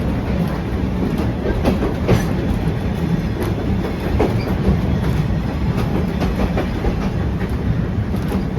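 Train ride heard from aboard a passenger car: a steady low rumble with irregular clacks and knocks of the wheels over the rail joints.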